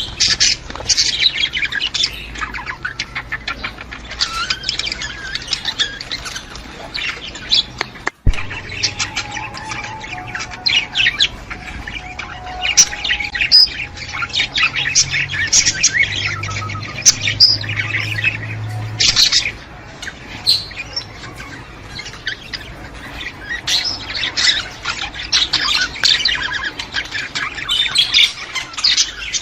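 A flock of budgerigars chattering: a dense, continuous mix of quick chirps, warbles and squawks, broken by a momentary gap about eight seconds in.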